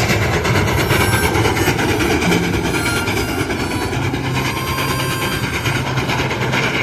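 Steam locomotive running with its train: a loud, steady, dense rush of mechanical and rail noise.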